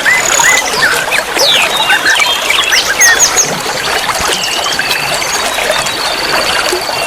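Many songbirds calling and singing at once in a dense mix of short whistles, chirps and rising and falling notes. A fast, even trill joins about halfway through. Running water trickles underneath.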